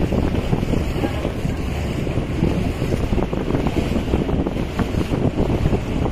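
Speedboat with twin Yamaha 200 hp two-stroke outboards running at speed: heavy wind buffeting on the microphone over the rush and slap of water against the hull, with the engines buried in the noise.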